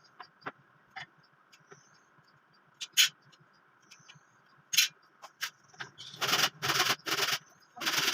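Woodworking on a wooden cage: scattered light knocks and taps on wood, then from about six seconds in a run of loud, rough scraping strokes.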